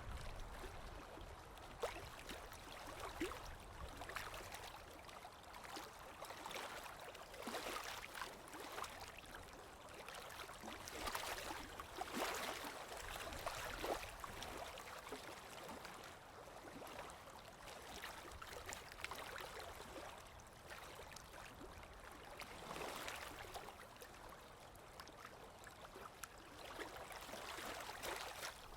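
Sea waves washing over the shore: a steady hiss of moving water full of small crackling splashes, rising and falling in slow swells.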